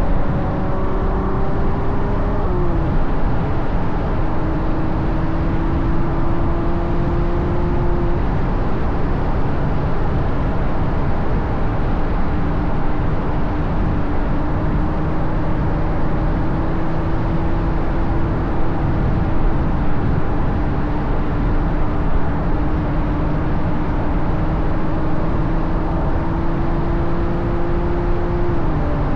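Ferrari GTC4Lusso's V12 engine with a Capristo exhaust, driving at road speed; its note climbs slowly and drops back about two and a half seconds in, again around eight seconds in, and near the end. It sits over heavy wind and tyre noise.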